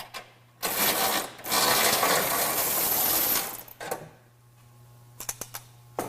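A power wrench running in two bursts, a short one and then a longer one of about two seconds, spinning off the nut that holds the bumper to the frame, followed near the end by a few light metallic clicks.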